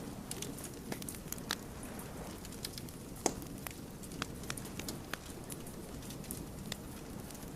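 Wood fire crackling: irregular sharp snaps and pops over a steady low rumble of the burning logs, with one louder pop a little past three seconds in.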